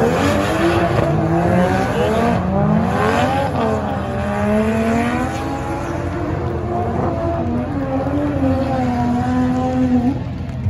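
Drift car's engine revving hard, its pitch rising and falling again and again with the throttle as it slides through the corners. It holds one steady pitch for a moment near the end, then drops away.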